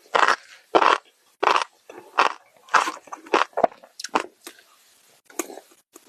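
Close-miked crunchy chewing: a run of sharp crunches at about two a second, with a short pause near the end.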